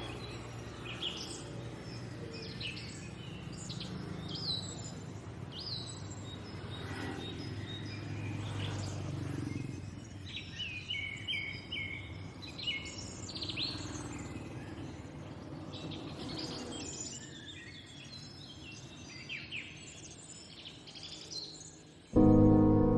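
Small birds chirping and twittering over a low steady background rumble. Music comes in suddenly near the end.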